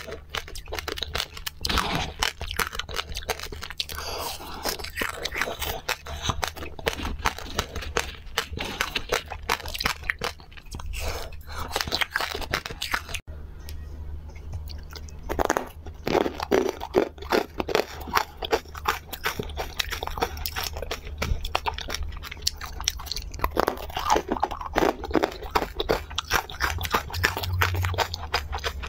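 Close-miked crunching and chewing of candy: first a sprinkle-coated chocolate candy, then, after a short pause about halfway through, a pink corn-shaped candy coated in green powder.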